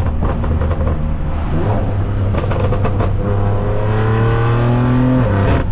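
BMW S55 twin-turbo inline-six accelerating through catless downpipes, a single mid-pipe and a valved axle-back with the valves open. The deep note climbs steadily in pitch from about two seconds in, then drops suddenly near the end as the revs fall.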